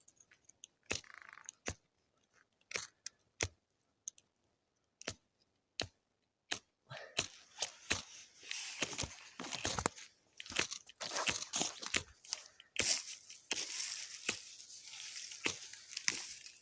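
A ferro rod struck with a steel striker over dry-grass tinder, making rasping scrapes: a few scattered strikes and clicks at first, then quick repeated strokes from about seven seconds in. The tinder does not catch.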